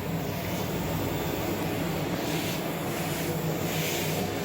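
Steady low machine hum, even throughout, of the kind made by lab ventilation or equipment fans, with faint soft hiss now and then.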